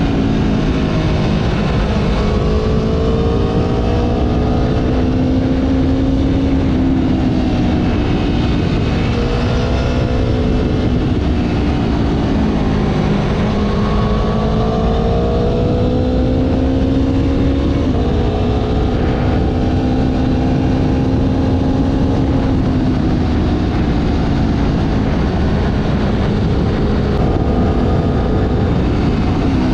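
Motorcycle engine running under way, its pitch rising and falling several times with throttle and gear changes, over heavy wind noise on the microphone.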